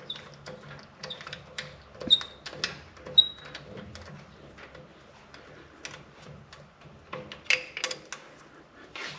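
Scattered small metallic clicks and clinks of an Allen wrench and hose fittings being handled and tightened, some with a brief ring. The sharpest are about two and three seconds in, with a quick cluster near the end.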